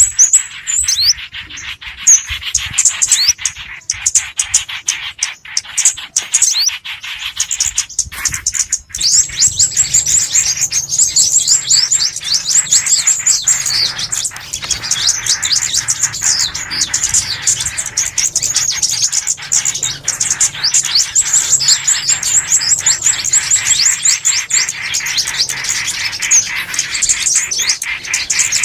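Small songbirds chirping and twittering continuously: many rapid, high, overlapping notes from a looped bird-call recording used to lure birds. A low hum joins about nine seconds in.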